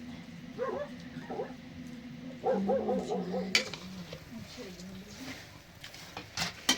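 A wavering pitched call: two short ones, then a longer one with a fast tremble in it. A few sharp clicks sound near the middle and the end, over a steady low hum.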